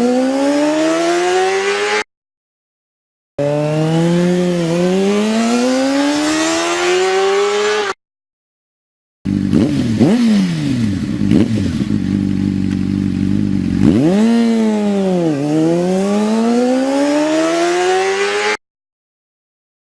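A motorcycle engine revving in several short edited clips separated by brief silences. Its pitch dips and then climbs again with each rev, and in one clip it drops back to a steady idle for a few seconds.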